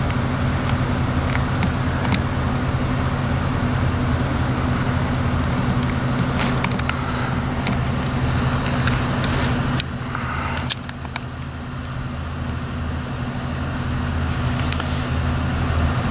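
A car engine idling steadily, a low even hum that dips in level for about a second, roughly ten seconds in, then builds back up.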